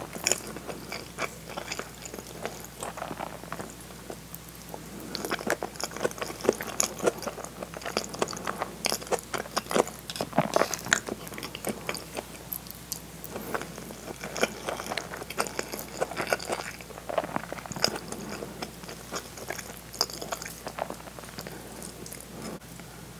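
Close-miked chewing of rice and potato salad: a continuous run of sharp, wet mouth clicks, busier through the middle of the stretch.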